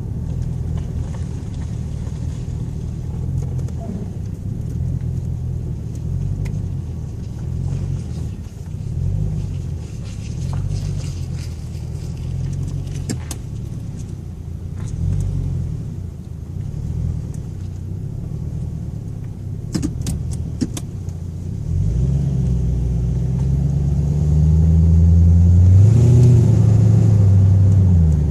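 Ford Thunderbird engine running low and uneven while driving. About 22 seconds in it accelerates, growing louder with its pitch rising, then falling back near the end. A few sharp clicks sound shortly before the acceleration.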